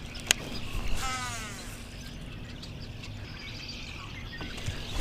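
A bird calls once about a second in, a short falling note, over a faint steady hum. A single sharp click comes just before it.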